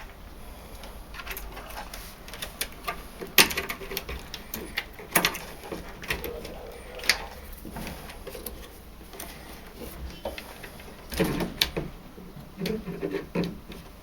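Irregular clicks and knocks of plastic tumble-dryer pump parts, hoses and small pliers being handled and pressed into place, the sharpest a few seconds in.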